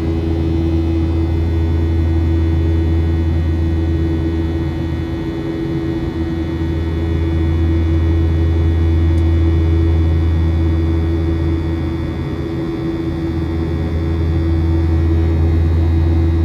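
Steady cabin drone of a Boeing 737-700 in flight, the engine and airflow noise heard from inside the cabin: a deep hum with a steady mid-pitched tone over it, swelling and easing slightly in loudness.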